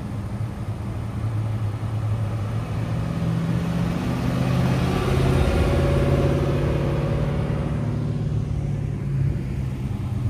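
A car engine runs as a car drives slowly past. It grows louder to a peak about halfway through, then fades as the car moves away.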